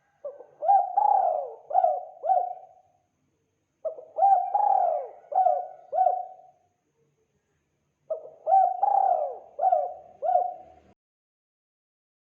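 Spotted dove (tekukur) cooing: three phrases of four or five coos each, a second or so apart.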